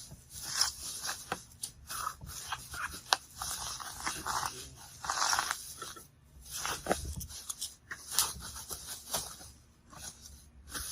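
Plastic bubble wrap rustling and crinkling in irregular bursts, with sharp crackles, as it is pulled and wound around an amplifier.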